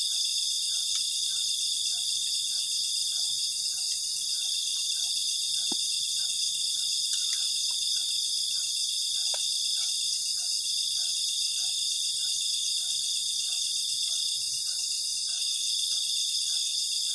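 Night chorus of crickets and other insects: a steady, high-pitched trill that does not let up. Underneath is a fainter call repeating about twice a second, with a few faint clicks.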